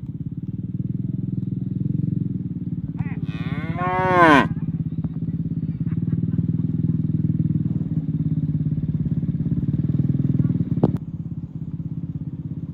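Cattle mooing, low and drawn out, with a louder call that rises and falls in pitch about three seconds in. A single sharp knock comes near the end.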